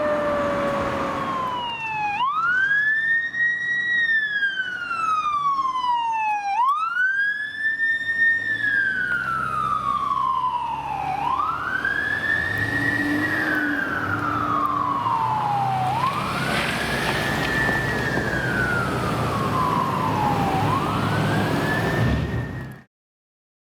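Fire apparatus siren on the wail setting: each cycle rises quickly, then falls slowly, about every four and a half seconds, over a low vehicle rumble. It cuts off suddenly near the end.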